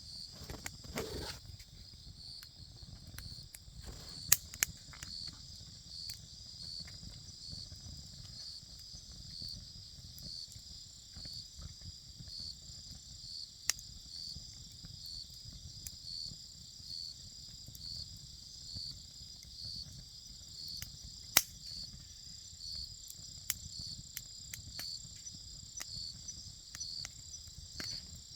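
Wood campfire crackling, with scattered sharp pops, the loudest a few seconds in and about two-thirds of the way through. Behind it, crickets or other insects chirr steadily with a slow pulse.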